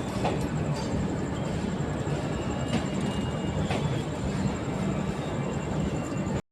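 Passenger train running along the track: a steady rumble and hum of the moving train, with a faint high whine, cutting off abruptly near the end.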